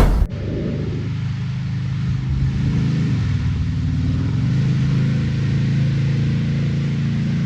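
A brief loud hit at the very start, then a car engine running with a steady low exhaust drone that firms up about two seconds in and holds.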